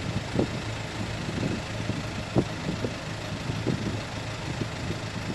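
Dump truck's diesel engine running steadily with a low hum, with irregular short low knocks and rattles over it.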